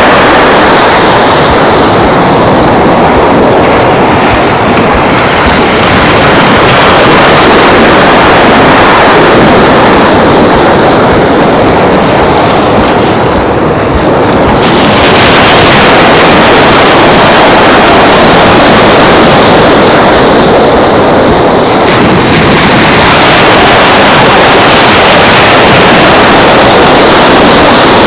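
Ocean surf with strong wind buffeting the microphone, a loud rushing noise that swells and eases every several seconds.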